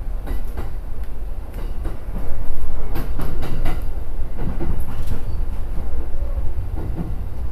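Electric commuter train running, heard from inside the driver's cab: a steady low rumble with irregular sharp clicks and knocks from the wheels passing over rail joints. It grows louder about two seconds in.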